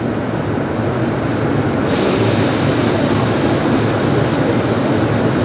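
Kintetsu 1259 series electric train standing at a station, its onboard equipment giving a steady hum and rumble. A hiss joins in about two seconds in and holds steady.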